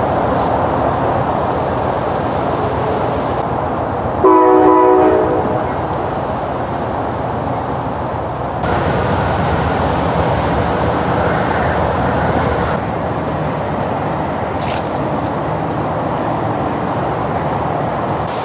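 A train passing with a steady rumble, and a single short blast of its horn about four seconds in.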